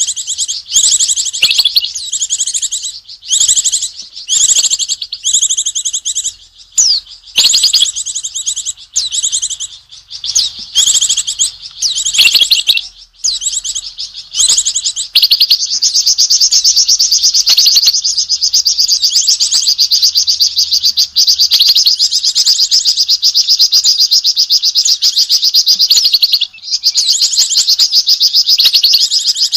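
A Flamboyan songbird calling in rapid, high-pitched chattering notes, its reaction to an owl. The notes come in short bouts with brief pauses at first, then from about halfway run into a near-continuous fast chatter, broken once shortly before the end.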